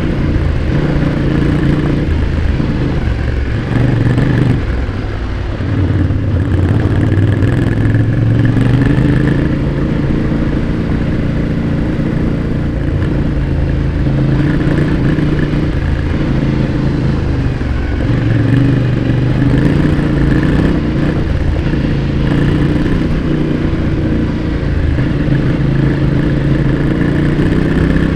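Yamaha Ténéré 700's 689 cc parallel-twin engine heard close at the exhaust while the bike is ridden hard, its pitch rising and falling as the throttle is opened and closed. About four to five seconds in the throttle comes off briefly before it pulls again.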